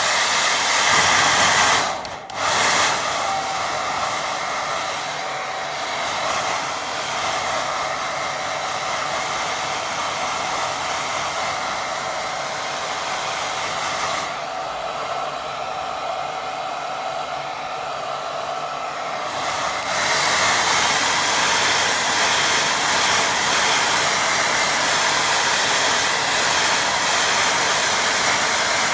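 Hair dryer blowing steadily to dry a wet watercolour glaze on paper. It dips briefly about two seconds in and gets louder about two-thirds of the way through.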